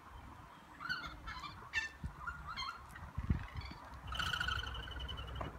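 Birds calling: several short calls with quick upward hooks in pitch, then a longer trilled call starting about four seconds in.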